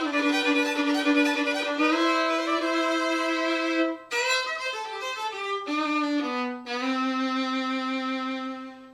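Hopf-stamped violin, re-voiced by A.W. Van Dorston with a double bass bar, played with the bow: a slow tune of long held notes with a short break about four seconds in, ending on a long low note that fades away. Its tone is warm.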